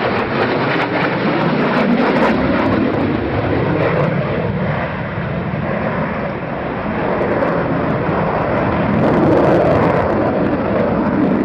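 Aircraft flying past: a loud, continuous rush of engine noise that eases a little midway and swells again near the end.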